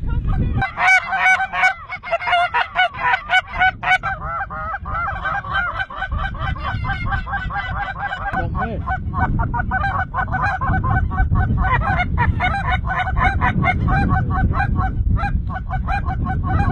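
A large flock of geese honking continuously, many overlapping calls, with a steady low rumble underneath.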